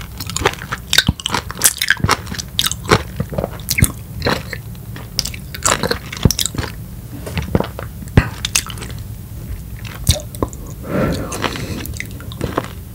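Close-miked chewing of a mouthful of peeled whole lemon: an irregular run of short, wet clicks and smacks from the mouth and the juicy fruit flesh.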